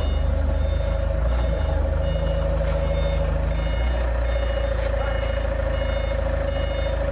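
A vehicle's reversing alarm beeping steadily, about once every two-thirds of a second, over a diesel-type engine running.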